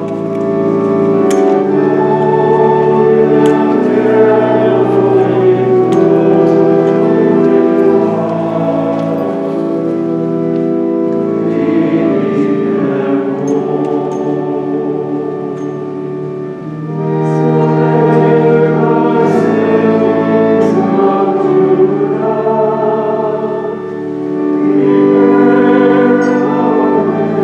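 Choir singing a slow hymn in sustained chords, phrases swelling and easing, with instrumental accompaniment.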